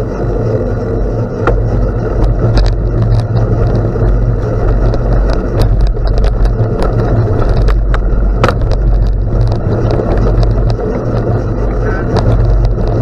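Bicycle tyres rolling over a gravel road: a steady low rumble with scattered sharp clicks of small stones.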